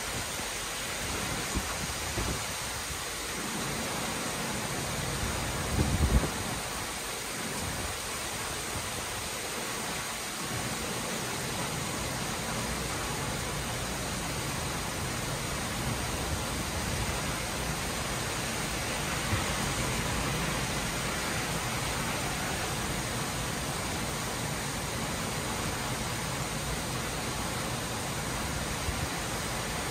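Torrential rain pouring steadily, a dense even hiss. A brief low thump stands out about six seconds in.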